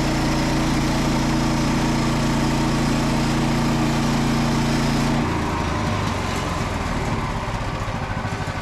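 Small petrol engine of a Frontier OS27 portable bandsaw mill running steadily at high revs, then throttled back about five seconds in to a lower, rougher-running idle.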